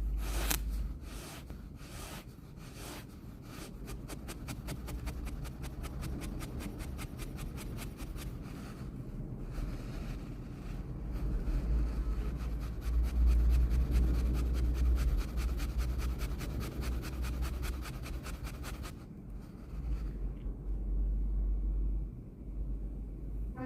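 Wet ASMR sand being crushed and crumbled, a dense run of fine crunchy crackles. A few louder crunches come in the first three seconds, and the crackling stops about 19 seconds in.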